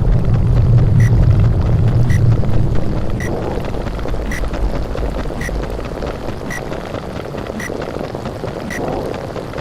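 Underwater sound effect: a rumbling, bubbling wash of noise, heaviest for the first three seconds and then easing. A short faint tick sounds about once a second throughout.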